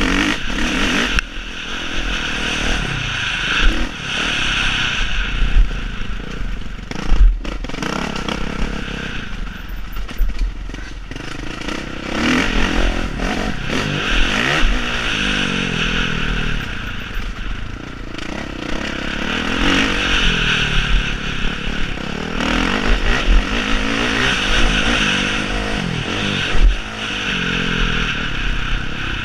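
Motocross bikes running on a dirt track, their engines repeatedly revving up and dropping back as they accelerate, shift and pass, with a few sharp louder moments.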